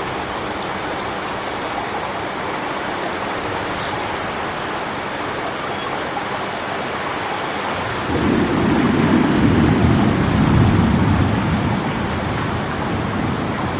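Strong wind rushing steadily through coconut palms, with a low rumble of thunder that swells about eight seconds in and fades over about four seconds.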